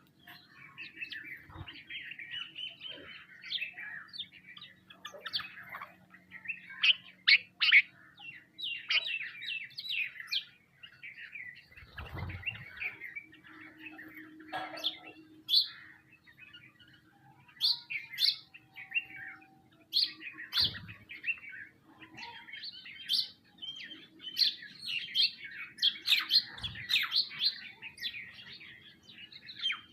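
A flock of small birds, sparrows and mynas among them, chirping in dense, overlapping calls without pause. A few soft low thumps come through, about 12, 21 and 27 seconds in.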